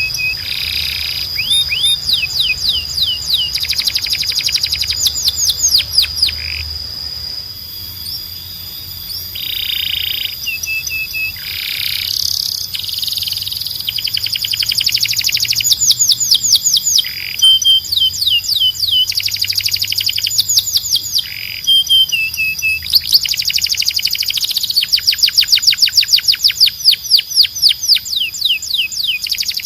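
Domestic canary singing: long, fast trills of rapidly repeated notes alternating with short held whistles, over a steady high whistled tone.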